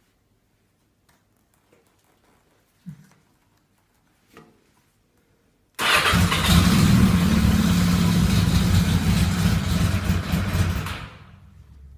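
A cold 1985 Yamaha XJ700N inline-four being started with difficulty. After a few faint clicks, the engine sound comes in suddenly about six seconds in, runs loud and steady for about five seconds, then dies down to a low level, and a second start attempt begins near the end.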